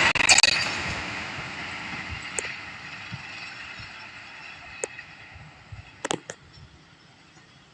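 Tail end of a train passing at speed: the last rhythmic wheel clacks over the rail joints in the first half-second, then the rumble fades steadily away. A few sharp clicks sound later.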